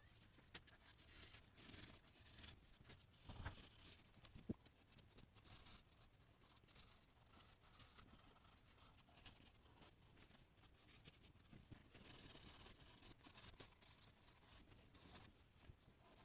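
Faint scratching of a drawing tool on paper in irregular strokes as a sketch is drawn, with a soft knock a few seconds in and a small click just after.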